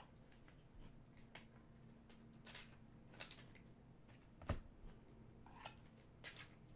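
Faint handling of trading cards and their packaging: scattered crinkles and clicks, with a soft thump about four and a half seconds in.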